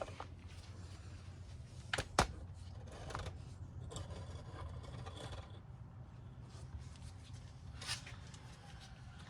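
Low, steady hum with hand tools working on the car: two sharp metallic clicks about two seconds in, soft rubbing and scraping, and another click near the end.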